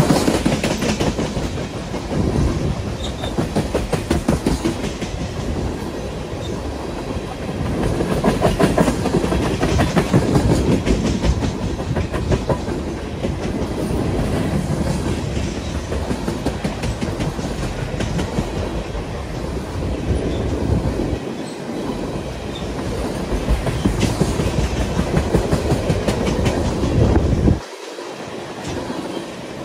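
Freight train of tank cars rolling past close by: a steady rumble with rapid clickety-clack of steel wheels on the rails. The low rumble drops away abruptly near the end.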